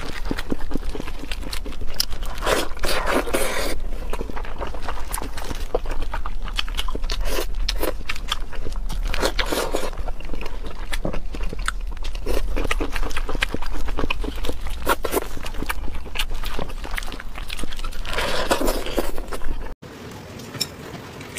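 Close-miked eating sounds: wet chewing and smacking with crunches and crackles as meat is pulled apart by gloved hands and eaten. The sound cuts off abruptly near the end.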